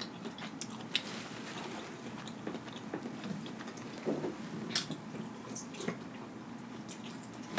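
Close-up eating sounds of a person chewing and biting into sauce-dipped lobster meat: soft wet chewing and mouth noises, with scattered light clicks.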